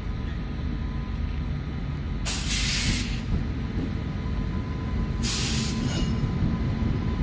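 WAP-7 electric locomotive hauling an express passenger train as it rolls slowly toward the platform: a steady low rumble of the locomotive and wheels on the rails, with two short bursts of hissing air about two and five seconds in.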